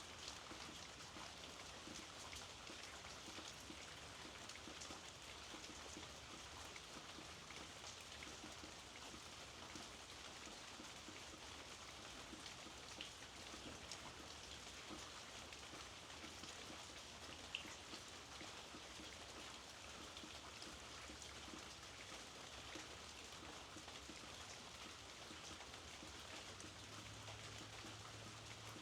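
Light, steady rain with many small drops ticking on a surface, and twice a single louder drop partway through.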